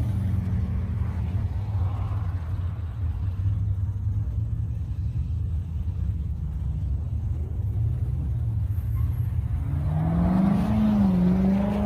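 Low, steady rumble of car engines idling. About ten seconds in, one engine revs up and accelerates, its pitch rising.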